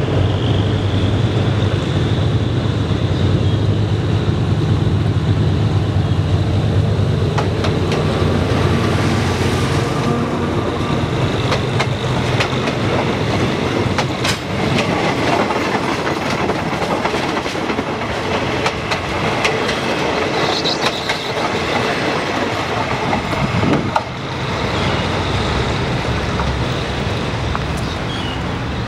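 A diesel locomotive hauling a passenger train passes close by, its engine giving a low steady drone for the first several seconds. Then the coaches roll past, their wheels clicking over the rail joints. About four seconds before the end the sound drops to a quieter, steadier noise.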